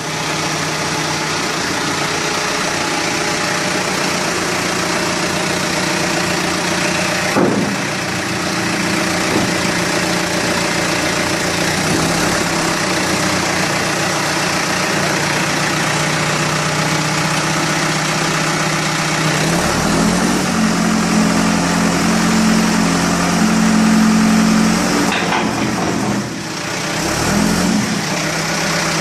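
Backhoe loader's diesel engine running steadily. Its note strengthens and deepens for several seconds about two-thirds of the way through, then settles back.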